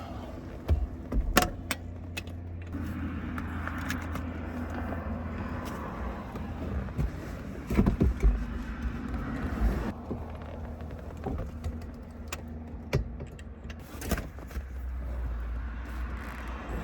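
Steady low hum inside a car, with scattered clicks, knocks and rustles of someone moving and handling things in the cabin.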